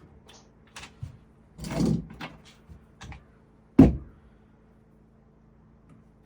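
Knocks and clatter of wood being handled during carpentry: scattered light clicks, a brief scraping rustle about two seconds in, and one loud thump a little past halfway through.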